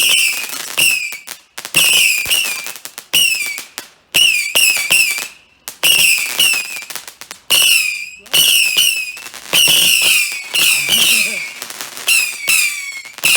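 Fireworks going off in quick succession, about one a second. Each goes with a sharp crack and a shrill whistle that falls slightly in pitch as it fades.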